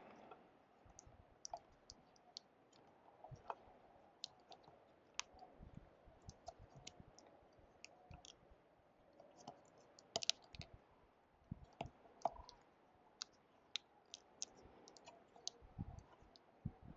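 Faint, irregular small clicks and taps of hands working on a wiring harness, with a brief cluster of clicks about ten seconds in.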